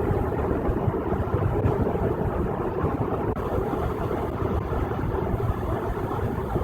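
Steady road noise of a car travelling at freeway speed, heard from inside the cabin: tyre rumble and engine, with no sudden events.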